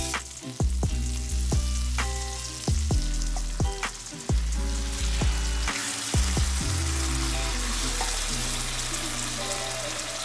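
Sliced onions and red peppers sizzling in hot oil in a cast-iron skillet, under background music with a steady beat.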